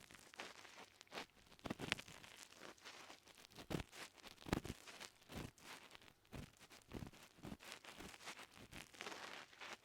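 Ear pick scraping and rubbing deep in an ear, in irregular crackly strokes, a few stronger scrapes standing out.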